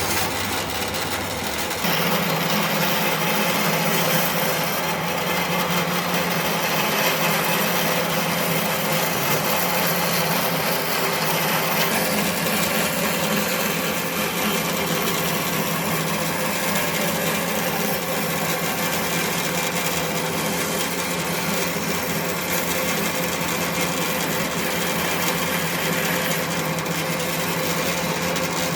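A power tool running steadily as it works wood, growing a little louder about two seconds in and holding that level.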